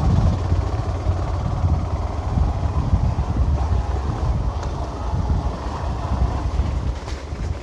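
Wind buffeting the microphone on a moving motorcycle, with the engine running under it as a steady low rumble.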